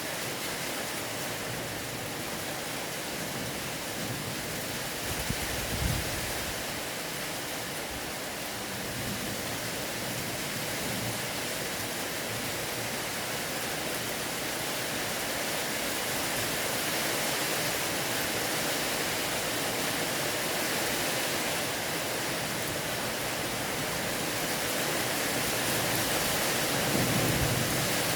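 Steady rain, a dense even hiss that grows slightly heavier toward the end. A brief low thump comes about five to six seconds in, and another near the end.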